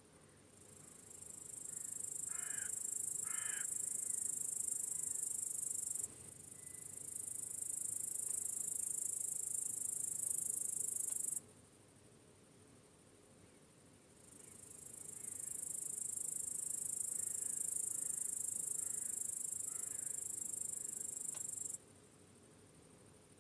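A dense, steady, high-pitched chorus of crickets chirping, which cuts out suddenly about eleven seconds in, swells back a few seconds later and cuts out suddenly again near the end. Two short bird calls come about two and a half and three and a half seconds in.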